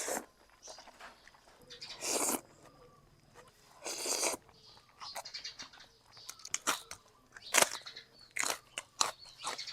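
Close-up eating sounds of a person eating Thai boat noodles: a few half-second slurps of noodles and broth early on, then chewing with quick wet smacks and clicks.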